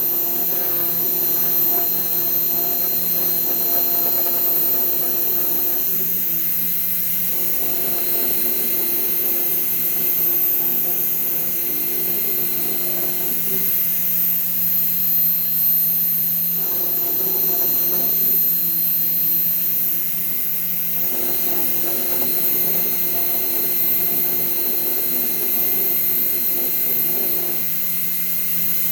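Fox Alien XE-PRO CNC router running: a steady high-pitched whine, with lower motor tones that cut out for a second or two several times and then resume.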